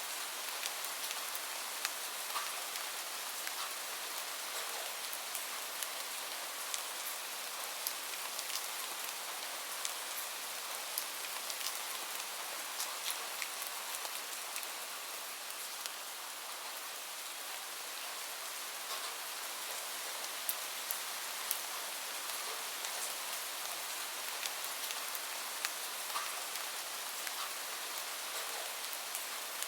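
Gentle rain falling steadily, with scattered sharp crackles from a wood fire at irregular intervals.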